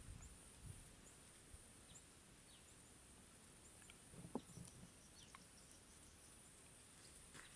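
Faint forest ambience: a steady high hiss with scattered brief, high chirps, and a single soft knock about four seconds in.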